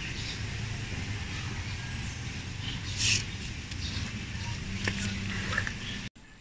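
Steady low background noise of distant road traffic, with a short loud hiss about three seconds in and a few light clicks near the end.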